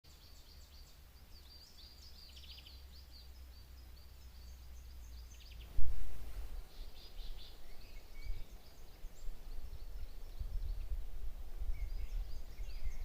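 Several small birds chirping and singing in quick short notes over a low steady rumble. About six seconds in there is a sudden loud bump, after which the low rumble turns uneven and gusty.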